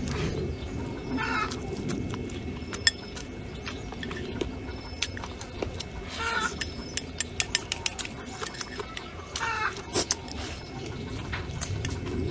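Eating and tableware sounds, many short sharp clicks and taps that bunch together about halfway through and again near the end, while an animal gives three short pitched calls, one near the start, one about halfway and one near the end.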